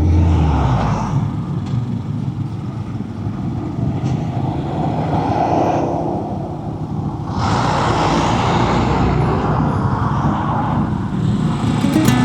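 Dual-sport motorcycle engine running steadily at road speed under a rushing of wind and road noise. The rushing drops away briefly about six seconds in, then comes back.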